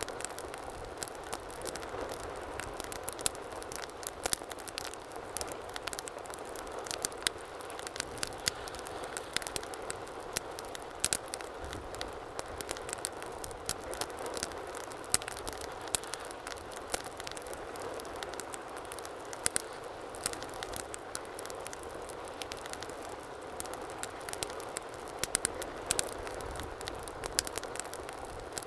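Wood fire burning in a fireplace: a steady low hiss of flames with frequent sharp, irregular crackles and pops from the burning logs.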